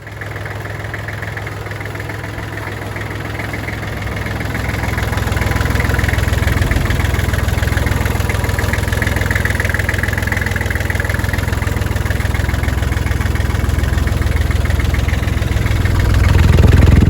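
Tractor engine running steadily at idle, growing louder about five seconds in and again near the end.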